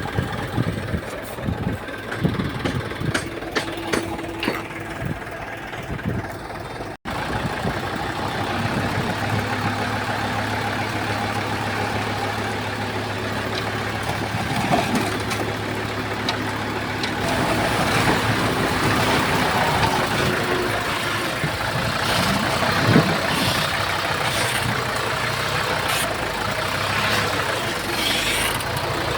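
Crawler bulldozer's diesel engine running steadily, with irregular sharp clanks and knocks over it for the first seven seconds. The sound cuts out for an instant, then the engine runs on evenly.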